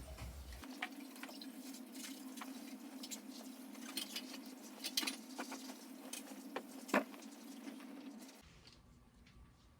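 Scattered light clicks and taps over a steady low hum, with one louder knock about seven seconds in.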